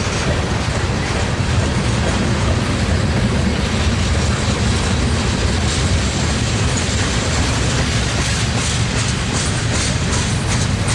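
Freight train cars rolling past close by, wheels clicking over the rail joints in a steady rolling clatter, with sharper clicks near the end.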